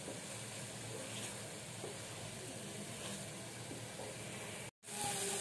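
Small kachki fish frying in spiced tomato-onion paste in a non-stick pan, sizzling softly while a silicone spatula stirs them, with a few faint scrapes. The sound cuts out for an instant near the end, then the sizzle resumes a little louder.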